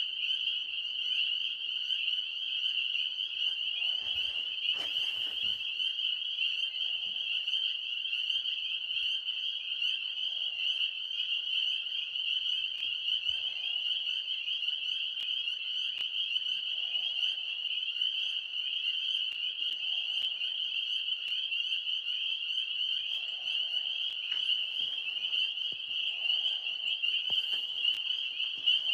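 Chorus of tree frogs calling at night, a dense, unbroken high-pitched trilling. A softer, lower call repeats every few seconds underneath, and there is a brief rustle about four seconds in.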